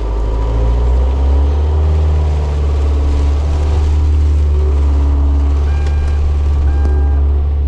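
Motorhome engine running as the vehicle is driven and manoeuvred to a new spot. Near the end a short electronic beep starts, repeating about once a second.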